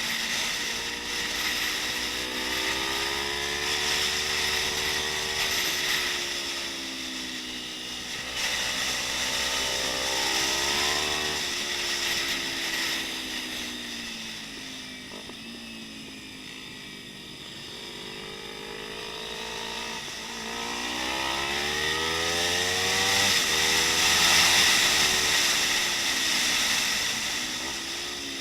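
Kawasaki Ninja 250's parallel-twin engine revving hard under acceleration, its pitch repeatedly climbing and dropping back at each gear change, with wind noise over it. About halfway through the engine falls quieter and lower, then climbs again near the end.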